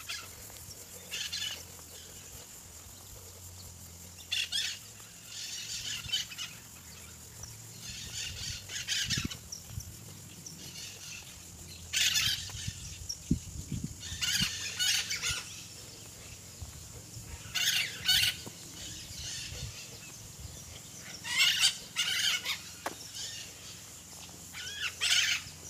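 Birds calling outdoors in short bursts every two to four seconds, over a faint low steady hum.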